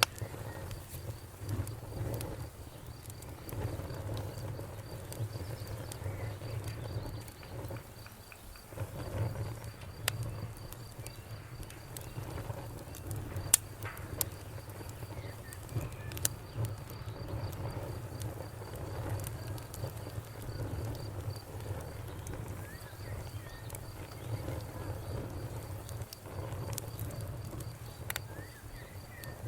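Wood fire crackling: a steady low rumble of burning with scattered sharp pops and snaps, the loudest about 13 seconds in.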